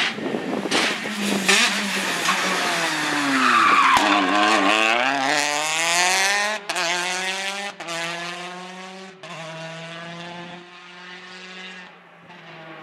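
Rally car braking hard into a corner with tyres skidding, its engine note dropping, then accelerating away hard through the gears, with about three quick upshifts, and fading into the distance.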